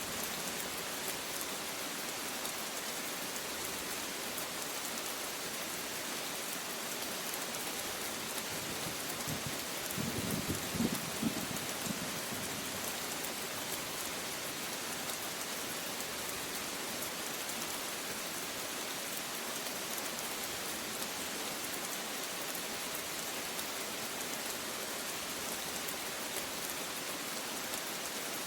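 Steady rain falling, a continuous even hiss. A brief low rumble stands out for about two seconds around ten seconds in.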